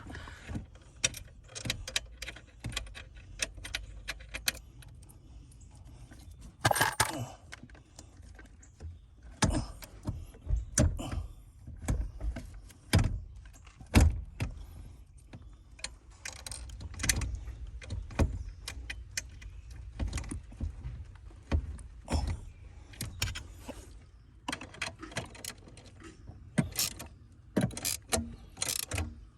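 Irregular clicking, rattling and knocking of hands handling plastic trim pieces, parts and tools around a car's steering column and dashboard, with a few louder knocks.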